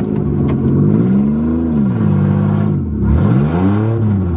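1989 Dodge Caravan's engine being revved twice, the revs climbing and then falling back each time.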